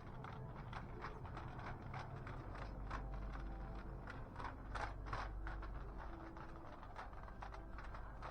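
Shop ambience: irregular light knocks and clicks of handling and walking over a steady low hum.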